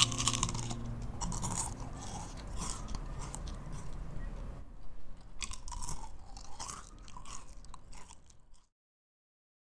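A crisp rolled wafer bitten with a sharp crack, then chewed with repeated crunching. The sound cuts off abruptly near the end.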